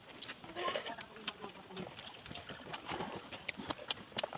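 Eating mouth sounds, chewing and lip-smacking, heard as a string of sharp wet clicks. A brief low cooing sound comes about half a second in.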